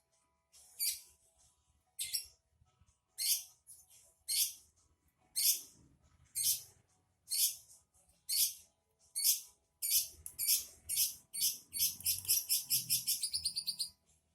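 Small songbird giving short, high chirps about once a second, then breaking into a fast run of chirps for the last few seconds.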